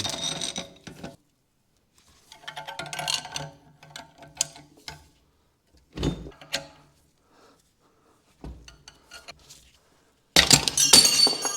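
Steel tools clicking and clinking on a car's trailing arm as a stuck bearing is worked out, with a single sharp knock about six seconds in. Near the end, a loud metallic clatter with ringing as the bearing comes free.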